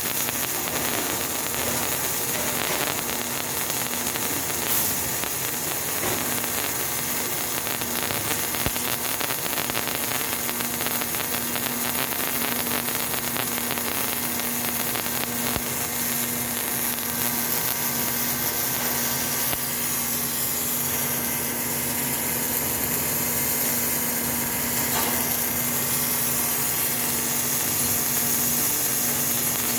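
Fronius robotic welding cell arc-welding: a continuous crackling hiss with a steady hum underneath.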